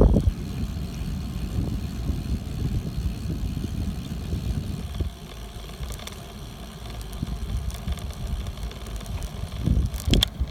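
Wind rumbling on the microphone and bicycle riding noise, steady throughout, with a few sharp clicks or rattles near the end.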